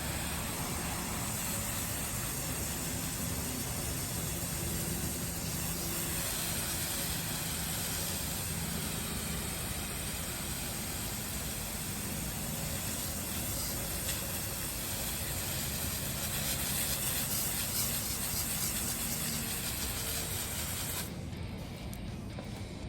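A steady rush of blowing air, a loud hiss over a low motor hum, that cuts off about 21 seconds in.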